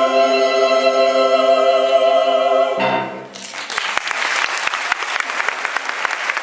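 A recorded show tune ends on a long held final chord, closed by a short low chord a little under three seconds in; then an audience breaks into applause and keeps clapping.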